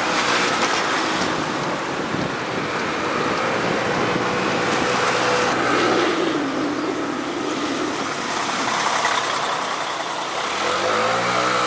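Motorbike engine running on the move, with wind and road rush over it. There is a rising and falling engine note near the end.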